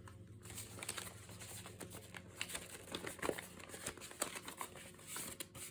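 Faint rustling of paper being handled, with scattered small taps and clicks as a folded paper signature is moved about and worked on.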